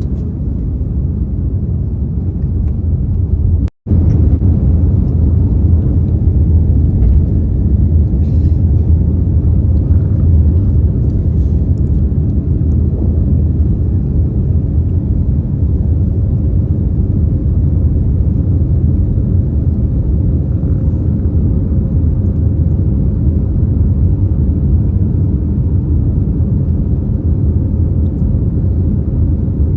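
Airbus A321neo heard from inside the passenger cabin during takeoff: a steady, loud low rumble of engines and airframe with a faint steady hum over it. The sound cuts out for an instant about four seconds in, then resumes unchanged.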